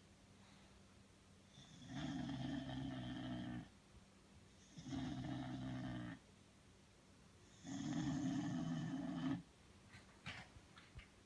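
Sleeping bulldog snoring: three snores, each one to two seconds long and a second or so apart, then a few faint short noises near the end.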